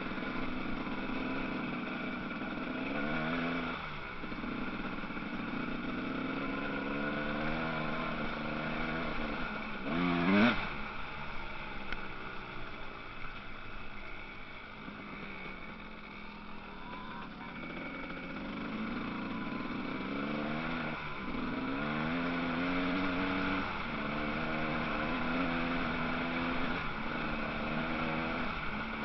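Motocross bike engines revving on the track, their pitch climbing and dropping again and again as the riders accelerate and shift. About ten seconds in, one bike passes close with a loud rising rev.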